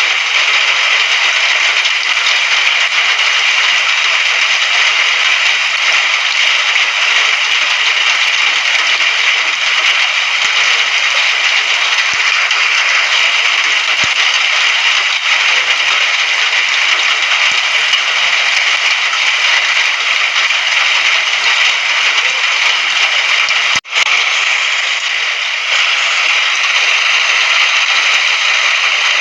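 Steady, loud hiss of rain with fine crackling patter throughout. It breaks off in a brief dropout a little over three-quarters of the way through.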